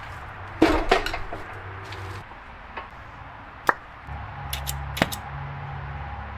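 Metal clinks and knocks of tools or parts being handled, a few sharp strikes with a cluster of light clicks in the middle, over a faint low hum.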